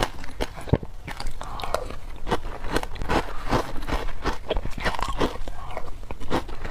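Biting into wet, frozen matcha ice: a rapid, irregular series of sharp crunches as the ice cracks between the teeth.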